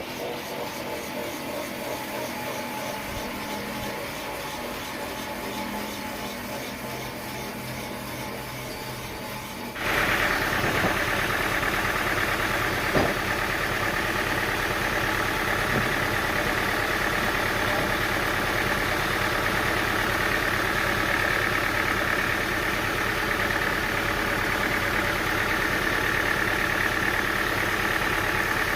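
Engine-driven machinery running steadily. About ten seconds in it changes abruptly to a louder sound with a steady high whine, with one sharp click a few seconds later.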